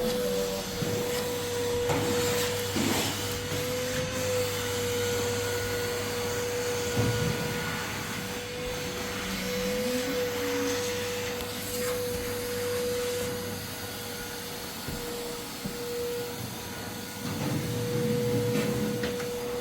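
A steady mechanical hum with one constant mid-pitched tone over a whooshing noise, like a small motor running.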